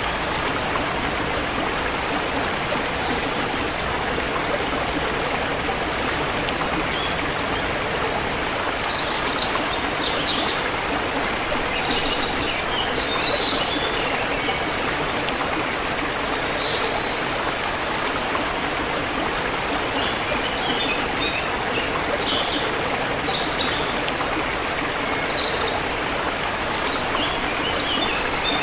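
Forest river water flowing steadily, with songbirds chirping in short high notes, scattered from about eight seconds in and thicker near the end.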